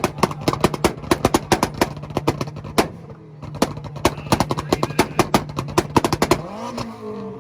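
Mazda MX-5 Miata held on a two-step launch limiter: the engine sits at one fixed pitch while the exhaust pops and bangs rapidly, several times a second. The popping breaks off briefly about three seconds in, then stops about six and a half seconds in as the revs fall away.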